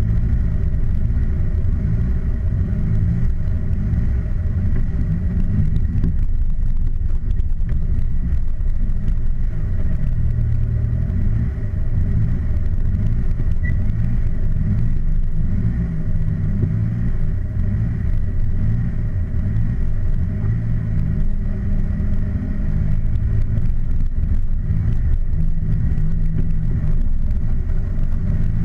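Car engine running steadily at low speed with a continuous low rumble, heard from a camera mounted on the outside of the car's body.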